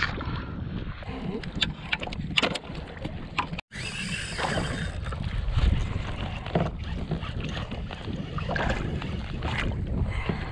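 Wind rumbling on the microphone aboard a fishing kayak on the water, with scattered sharp knocks and clicks from gear on the hull. The sound cuts out completely for a moment a little over a third of the way in.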